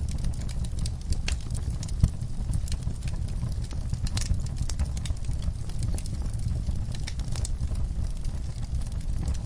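Wood fire crackling, with a steady low rumble of flames and frequent irregular sharp pops and snaps, one louder pop about two seconds in.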